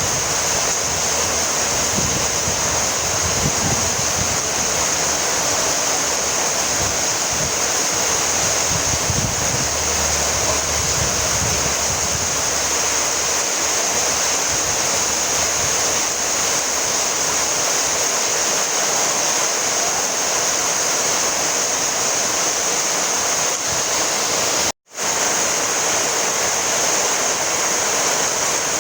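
Steady rainfall, a dense even hiss with no separate drops standing out. It cuts out briefly about three-quarters of the way through.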